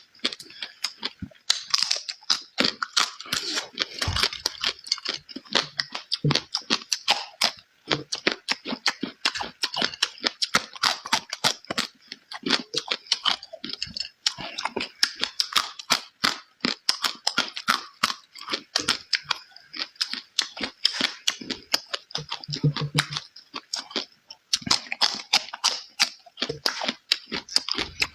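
Close-miked chewing and lip-smacking while eating, a dense, irregular run of sharp wet mouth clicks with short pauses now and then.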